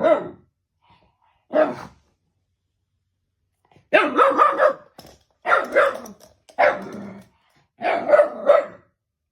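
Shiba Inu barking in short bouts: a single bark about a second and a half in, then repeated barks in quick groups from about four seconds on.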